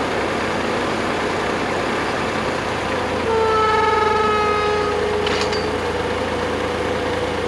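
Engine running steadily. About three seconds in, a loud whine with overtones comes in, sags slightly in pitch, then drops back to a fainter steady whine.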